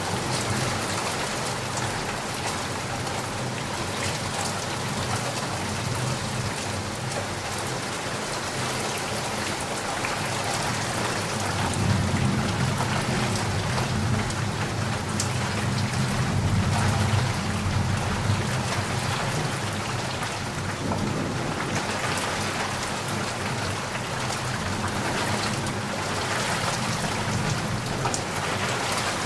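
Steady, dense rain falling, with a low rumble of distant thunder that swells from about a third of the way in and fades again past the middle.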